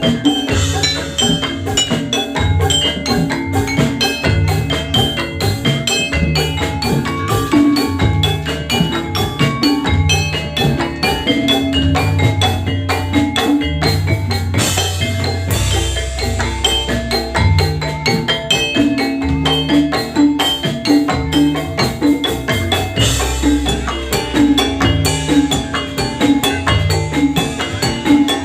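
Instrumental jathilan gamelan music without vocals: fast, even metallophone patterns over drums, with deep low swells twice, about halfway through and again near the end.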